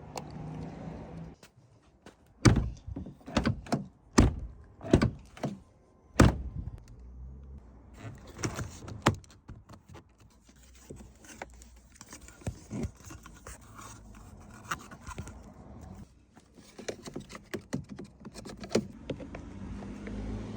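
Repair work on a car: a run of about eight sharp, loud knocks and thunks a couple of seconds in, then lighter clicks and rattles of metal tools and parts being handled.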